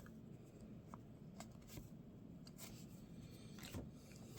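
Faint handling of baseball trading cards: a few soft ticks and slides as cards are flipped through one by one.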